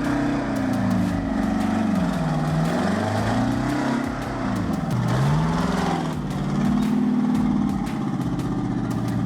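A vehicle engine running under load, its pitch rising and falling several times as it is revved and eased off.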